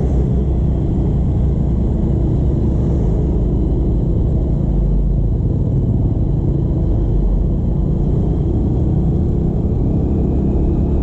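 Motorcycle on the move at a steady pace: a constant low rumble of engine and road and wind noise, with no sudden changes.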